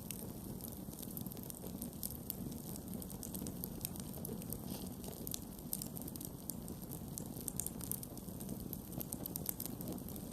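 Wood campfire burning: frequent small, sharp crackles and pops at irregular intervals over a steady low rumble from the fire.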